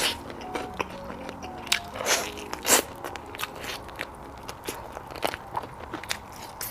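Close-up eating sounds: crisp bites into fried chicken, the loudest about two seconds in, followed by many small crunching chews. Soft background music plays under the first half and stops about halfway.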